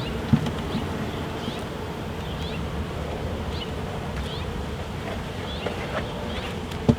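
A swarm of honeybees humming steadily around an open hive, with a few light knocks near the end.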